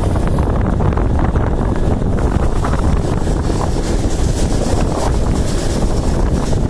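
Strong sandstorm wind buffeting the microphone: a loud, continuous low rumble that does not let up.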